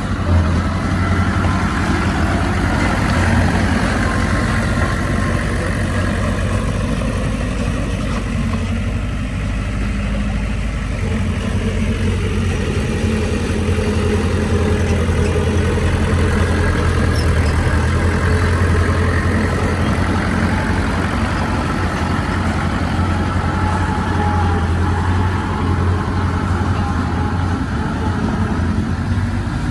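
Heavy diesel engine of earthmoving machinery running steadily with a deep, continuous hum that eases a little and then builds again partway through.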